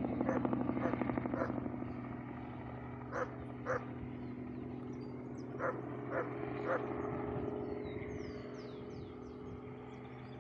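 Helicopter passing, its rotor chop and engine hum strongest at first and fading away. About a third of the way in and again past halfway, there are five short sharp sounds in pairs, and faint high chirps come near the end.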